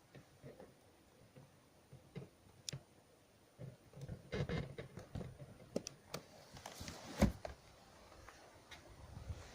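Scattered light clicks and knocks, busiest in the middle, with one louder thump about seven seconds in.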